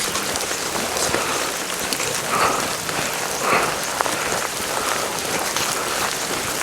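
Steady rain, mixed with falling snow, pattering on a tent and tarp: a dense hiss of small drops with a few heavier splats.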